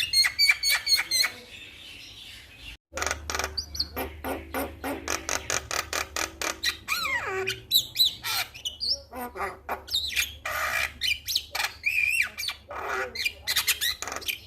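Male Javan myna (jalak kebo) singing: a fast run of sharp clicking notes mixed with whistled glides and harsh squawks, broken by a momentary gap about three seconds in.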